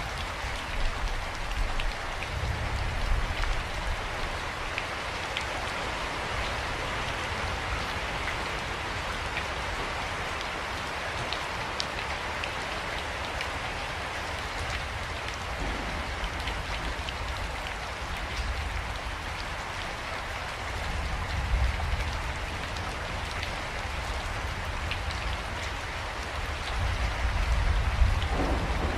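Steady rain falling on a surface: a dense, even hiss of drops with sharper single drop ticks. A low rumble swells under it now and then.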